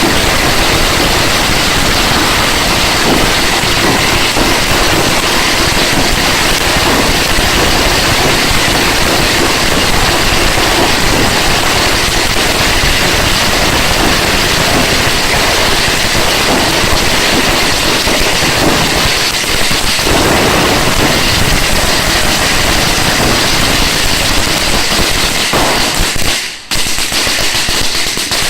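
Long strings of Chinese firecrackers, thousands of them lit at once, going off in a loud, dense, unbroken crackle of rapid bangs. A couple of seconds before the end the crackle briefly drops out and then thins into separate bangs.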